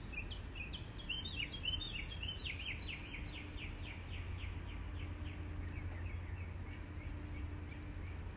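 A bird chirping in a quick series of short, falling high notes that thin out and fade about six seconds in, over a steady low outdoor rumble.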